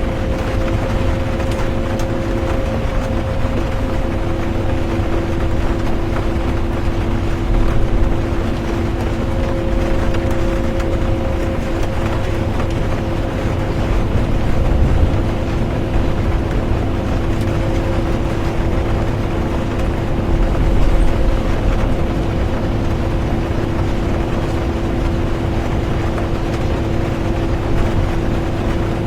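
Bus interior while driving: a steady, heavy engine and road drone with a constant two-note hum from the drivetrain, mixed with rain.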